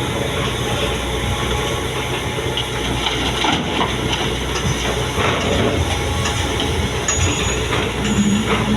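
Heavy diesel machinery running steadily under load, with scattered metallic clanks and rattles over the engine rumble.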